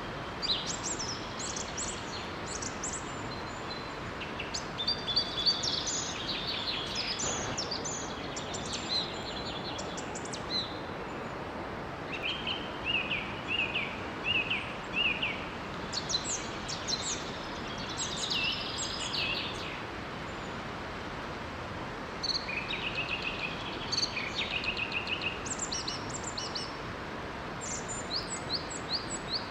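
Songbirds chirping and singing in short, repeated phrases over the steady rush of a small waterfall.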